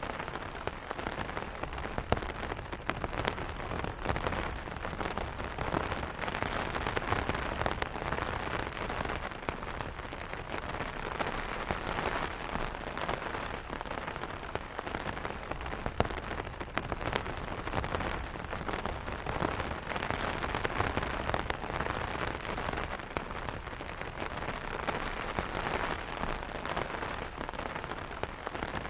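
Rain falling steadily on an umbrella canopy: a dense patter of drops with frequent sharper individual taps.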